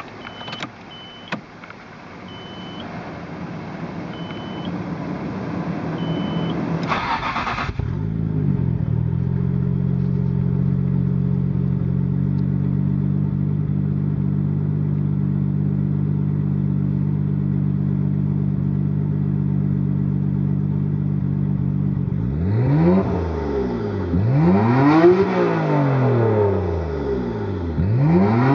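Nissan RB26DETT twin-turbo straight-six engine, with short high beeps every couple of seconds in the first few seconds. The engine catches with a burst about seven seconds in and settles into a steady, even idle. Near the end it is revved several times, each rev rising and falling.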